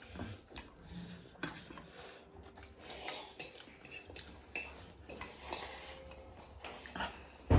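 Eating utensils clinking and scraping against dishes during a meal, in scattered light clicks, with a louder knock right at the end.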